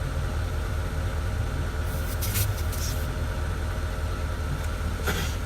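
Steady low hum of a 2008 Porsche Cayenne Turbo's twin-turbo V8 idling, with its on-board air-suspension compressor running. Short hisses about two seconds in and near the end come as the air hose's fitting is threaded onto the tyre valve stem.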